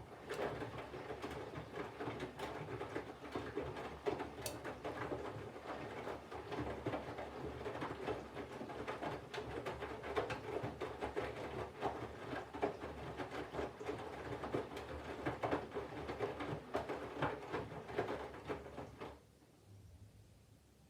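Candy GVF4 137 LWHC/2 front-loading washing machine's drum tumbling the wet laundry during the water-heating phase: a low motor rumble under a dense patter of water sloshing and clothes flopping. The tumble stops about 19 seconds in, leaving a faint hum.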